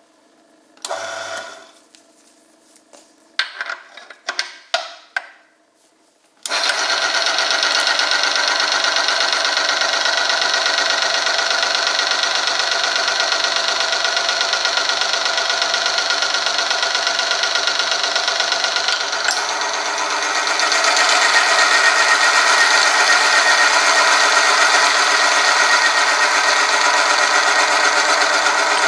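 Oil-film friction test machine: a few knocks and clatters, then about six seconds in its motor starts suddenly and the rig runs steadily with a dense mechanical whine. It grows louder about twenty seconds in as the test goes on.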